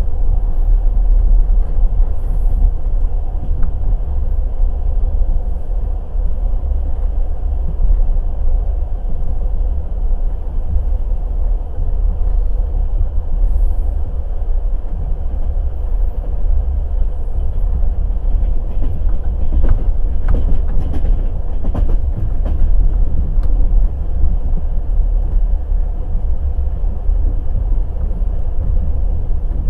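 Night express passenger train's wheels rumbling and clattering on the rails in a steady, heavy low rumble, with a run of sharper knocks about two-thirds of the way through.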